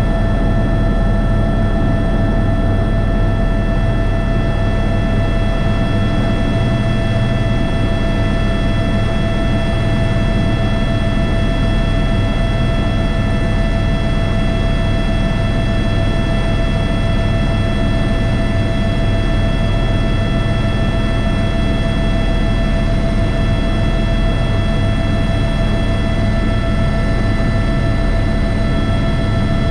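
Airbus H125 (AS350 B3) helicopter running steadily, heard from the cockpit: a constant whine of several steady high tones over the low, fast beat of the main rotor.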